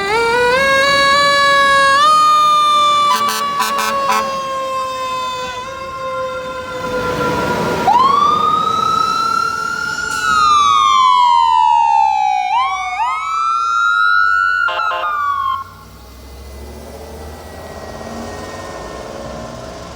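Fire truck siren sounding: a wail that rises sharply, falls slowly, rises and falls again, then gives two quick rises, with a few short sharp bursts in between. It cuts off suddenly about three quarters of the way through, leaving quieter vehicle running noise.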